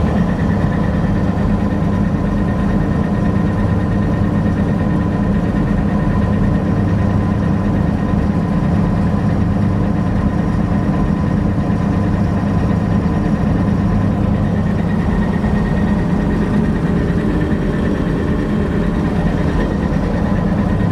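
Massey Ferguson 760 combine's six-cylinder Perkins turbo diesel running steadily at idle but not running well, fed by an auxiliary electric fuel pump; the owner puts the trouble down to air getting into the fuel system through leaking injection lines and a lift pump that loses its prime.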